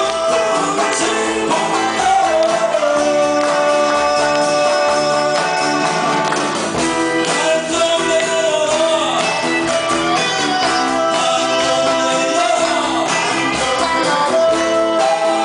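Live band playing a 1970s–80s style Korean pop-rock song: strummed guitars, bass and drums under long held melody notes.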